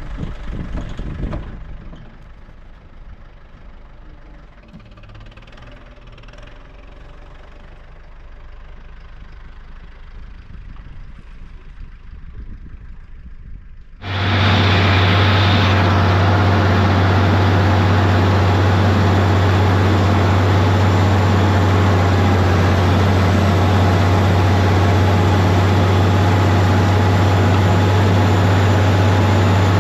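Kubota tractor's diesel engine running, fairly quiet at first. About halfway through it abruptly becomes much louder and holds a very steady, even drone with a strong low hum.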